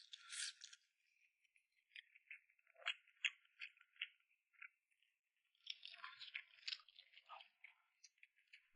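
Close-miked chewing with crisp crunching and small clicks of the mouth, coming in short spells with pauses between them.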